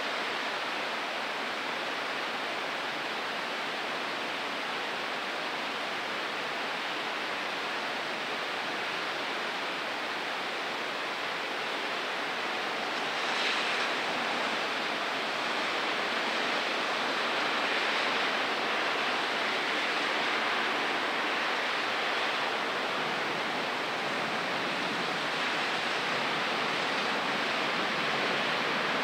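Steady rain falling in a thunderstorm, an even hiss that grows a little louder about halfway through.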